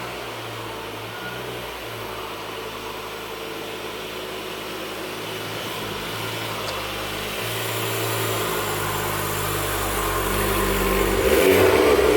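Car engine running, its pitch shifting up and down, growing louder over the last few seconds as it comes closer.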